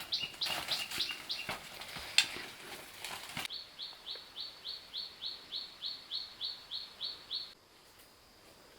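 A bird chirping in a fast, even series, about four high chirps a second, which cuts off suddenly near the end. In the first few seconds other chirps mix with scattered light knocks.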